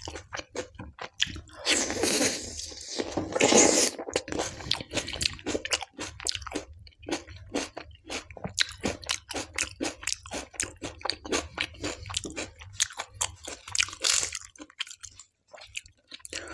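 Close-miked wet chewing and biting of a whole raw tomato coated in dal lentil curry: a dense run of quick smacking mouth clicks, with two louder, longer squelchy bites about two and three and a half seconds in.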